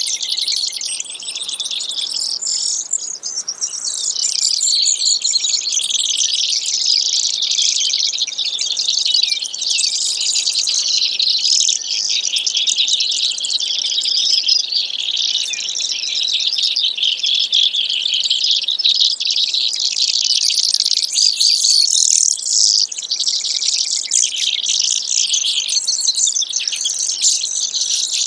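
Brewer's sparrow singing: a long, unbroken run of rapid high trills and buzzy notes that changes in pattern from moment to moment.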